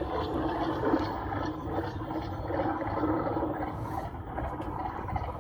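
Sound-and-light-show soundtrack played over outdoor loudspeakers between lines of narration: a dense, muffled wash of sound effects with a steady low hum underneath.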